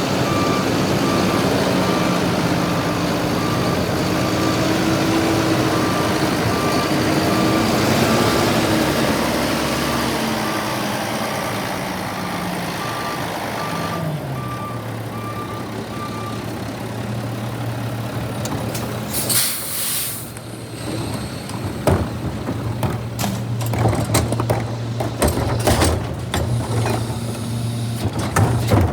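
Garbage truck backing up, its reversing alarm beeping steadily until about halfway. Meanwhile the diesel engine's note falls and settles to a steady idle. A little past two-thirds of the way in comes a short air-brake hiss, followed by a run of knocks and clatter.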